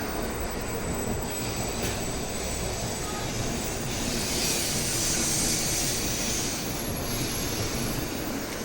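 Shinkansen train rolling along the platform as it comes into the station, a steady rumble with a rushing hiss that swells about halfway through.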